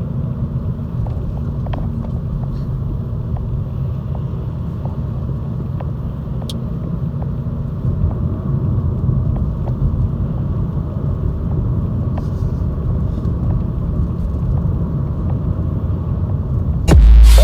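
The 2.0-litre five-cylinder diesel of a Volvo S60 D3 running steadily with a low rumble, a little louder after about eight seconds. Loud electronic music cuts in near the end.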